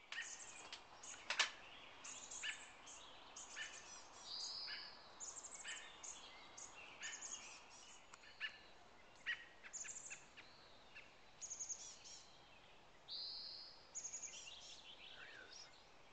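Songbirds chirping and singing, many short calls in quick succession with two longer whistled notes. A single sharp click about a second and a half in.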